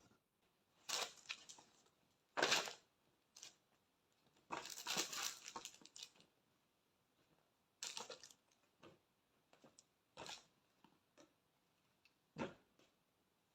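Gift packaging being handled and torn open: a series of irregular rustling, crinkling and tearing bursts, the longest lasting about a second and a half.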